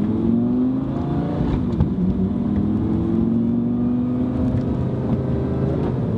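Car engine accelerating under way, its pitch climbing, dropping back about a second and a half in as it changes gear, then climbing again slowly.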